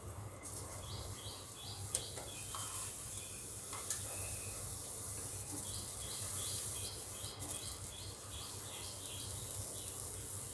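A bird chirping in runs of short, high, repeated notes, several a second at times, over a steady hiss and a low hum. Two sharp clicks stand out, about two and four seconds in.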